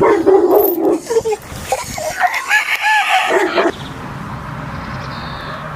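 A rooster crowing loudly, stopping suddenly a little past halfway through, after which only a steady low rumble remains.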